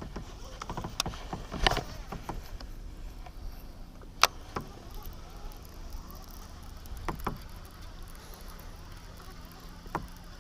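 Light knocks and clicks of fishing gear being handled in a kayak, about half a dozen scattered over several seconds, the sharpest about four seconds in, over a low steady background.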